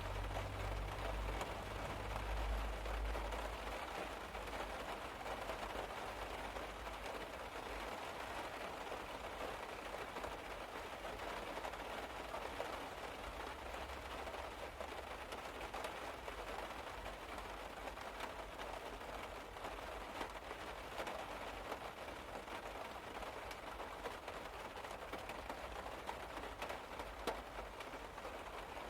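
Rain falling on a car's roof, heard from inside the car: a steady hiss of many small drop taps. A low rumble underneath fades out in the first few seconds.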